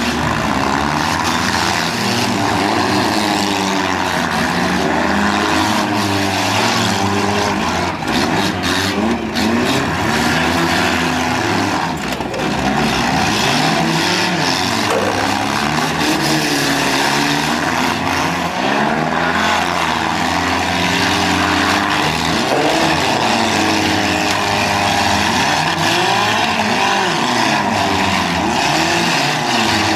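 Several demolition derby cars' engines running and revving up and down at once, their pitches overlapping continuously, with a few sharp knocks about eight to ten seconds in.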